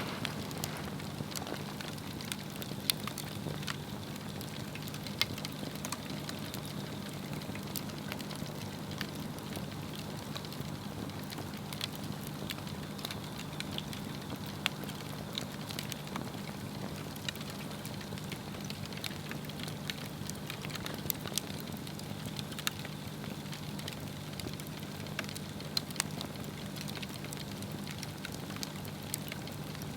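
Swedish torch, a split log burning upright, crackling steadily with scattered sharp pops over a soft hiss of flame. A steady low hum runs underneath.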